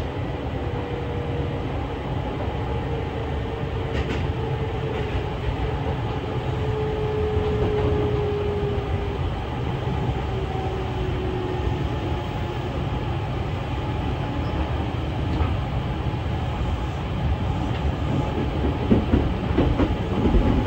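Kintetsu electric commuter train running, heard from inside the front of the car: a steady rumble of wheels on rail with a faint motor tone that slowly falls in pitch over the first half, as the train slows for a station stop. A few clacks over rail joints or points, several of them near the end.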